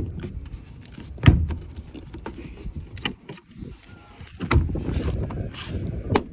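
Plastic car door trim panel being pushed and knocked into place on the door, with three sharp thuds as its clips go home and plastic rubbing and scraping in between.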